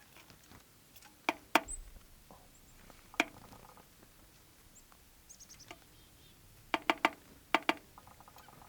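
Several sharp clicks or knocks, two close together about a second in, one near three seconds, and a quick run of four near the end, with faint short high bird chirps and a brief buzzy call between them.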